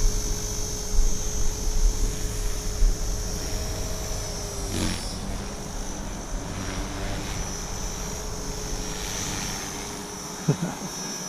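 Align T-Rex 450 electric RC helicopter running, a steady high whine from its motor and rotors.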